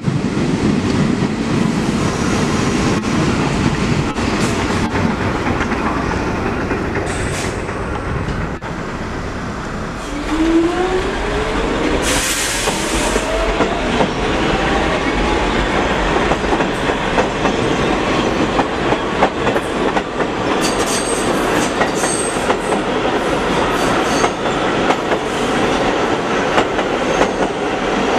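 Train running along the track with steady rumble and wheel clickety-clack. About ten seconds in comes a rising whine and a short hiss, and high-pitched wheel squeals follow near the end.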